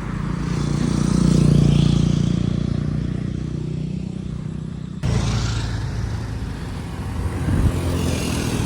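A motor vehicle engine on the road, swelling as it passes close and then fading. About five seconds in the sound cuts abruptly to more engine and road noise.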